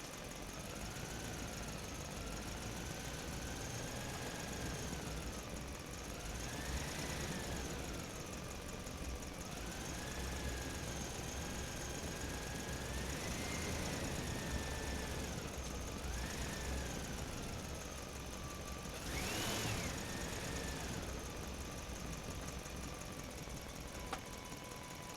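Electric motor of an RC truck whining, its pitch rising and falling repeatedly as the throttle is worked, over a steady rumble of the drivetrain and tyres. About two-thirds of the way through there is a short, louder burst of speed.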